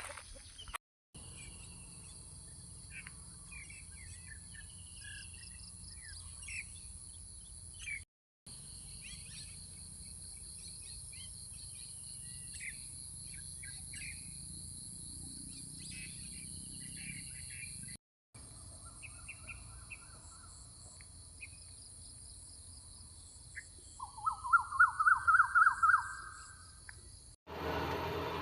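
Several birds chirping and calling over a steady high drone of insects. Near the end one bird gives a loud, rapid series of about ten notes, the loudest sound here.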